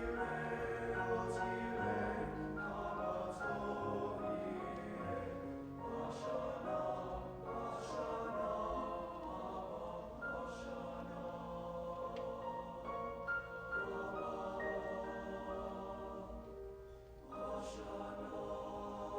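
High school choir singing held, sustained notes, with a short break between phrases near the end before the singing resumes.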